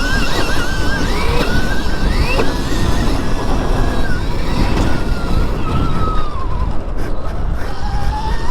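Stark Varg electric dirt bike's motor whining, its pitch wavering and rising and falling with the throttle, with two quick upward sweeps in the first few seconds, over a heavy low rumble of noise.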